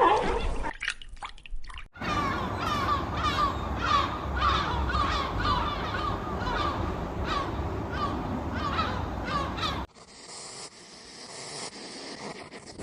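A bird's short harsh calls, repeated about one to two times a second over steady low background noise, cut off abruptly near the end.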